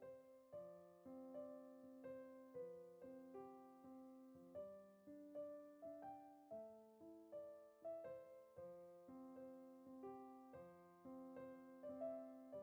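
Soft piano background music: a gentle run of single notes and chords, about two or three struck notes a second, each fading after it is struck.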